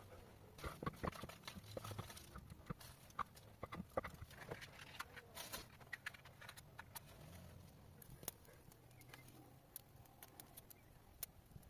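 Scattered light clicks and taps at an irregular pace, thicker in the first half and thinning out toward the end, over a faint low rumble.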